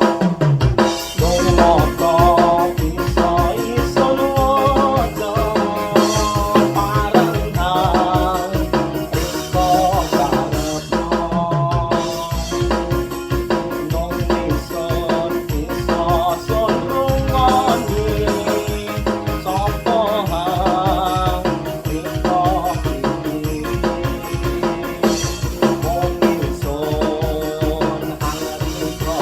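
Dangdut koplo instrumental played on an arranger keyboard: a wavering lead melody over a busy drum-kit and bass rhythm.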